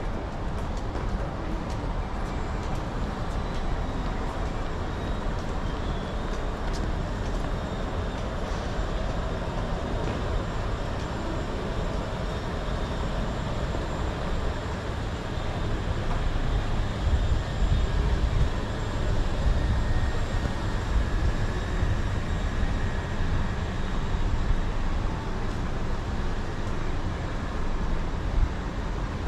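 Steady low rumble of city vehicles in a busy street, swelling louder for several seconds a little past the middle.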